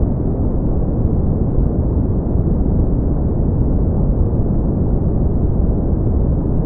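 Steady brown noise: an even, deep rushing hiss with most of its energy in the low end and nothing above the low treble.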